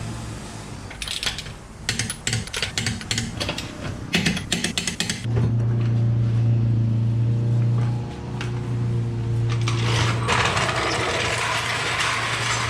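A run of quick mechanical clicks and rattles, like a ratchet or small mechanism. After about five seconds it gives way to a steady low hum, with a hissing rush joining in for the last few seconds.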